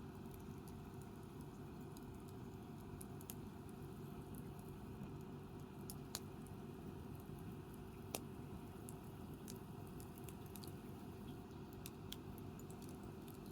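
Wood campfire crackling: scattered sharp pops at irregular intervals over a low steady rush of burning, the loudest pop about eight seconds in.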